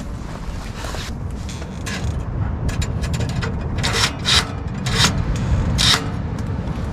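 Clothing rustling as a jacket is taken off: fabric rubbing, with several sharp swishes in the second half, over a steady low rumble.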